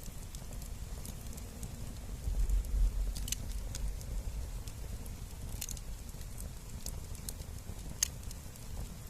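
Wood fire crackling, with scattered sharp pops, one especially sharp pop near the end. A low rumble swells briefly a couple of seconds in.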